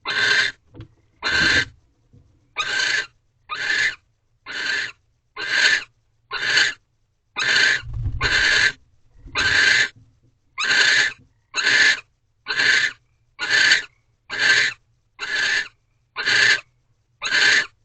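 Barn owl giving a harsh, rasping hiss-like call over and over, about once a second, each call about half a second long.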